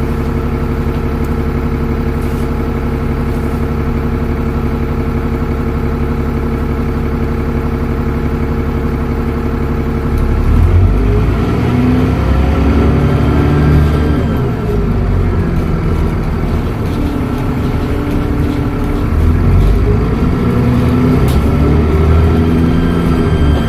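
Dennis Trident double-decker bus engine idling steadily, then pulling away about ten seconds in. It revs up through several automatic gear changes on the Voith gearbox, its pitch rising and dropping back at each shift.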